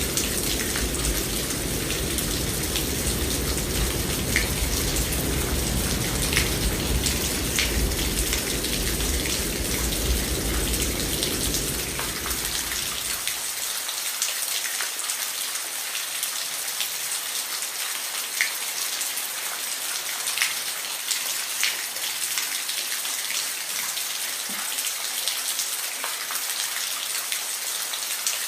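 Steady rain falling, with individual drops ticking close by. A low rumble underneath stops abruptly about halfway through.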